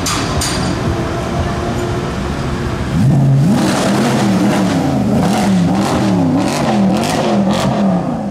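Mercedes-Benz C63 AMG Black Series' 6.2-litre V8 running at low revs, then from about three seconds in revved hard over and over, its pitch climbing and dropping about twice a second.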